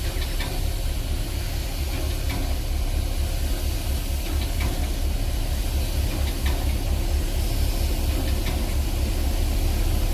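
A railway locomotive standing and idling: a steady low throb with a faint hiss over it.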